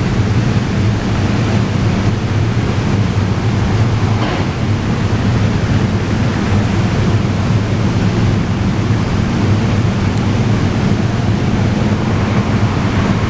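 SEPTA Regional Rail electric train running in the station: a loud, steady rumble with a low hum beneath it.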